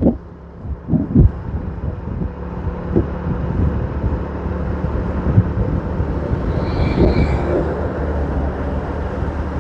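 Motorbike engine running steadily on the move, a low even hum with road noise.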